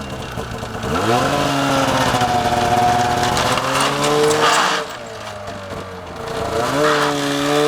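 Snowmobile engine revving as the sled is driven up a ramp onto a truck: the pitch climbs about a second in and holds, eases off near five seconds, then climbs again near the end.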